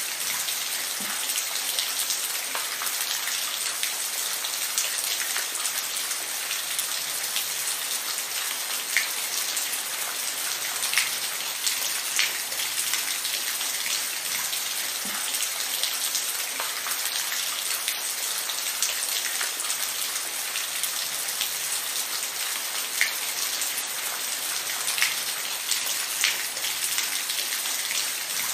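Steady rain falling, an even hiss with scattered sharp drop ticks and an occasional louder single drop.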